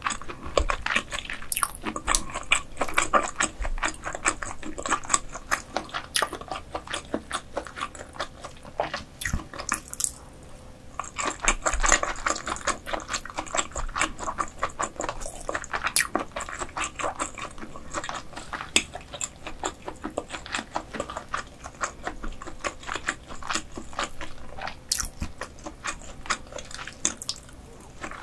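Close-miked chewing of croaker dishes: a dense, irregular run of wet mouth clicks and smacks, with a short lull partway through.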